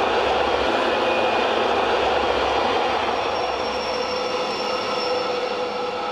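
Appenzeller Bahnen metre-gauge electric train running past, a steady rolling rumble with thin high wheel squeals on the curve. Over the last few seconds it slowly fades as it draws away.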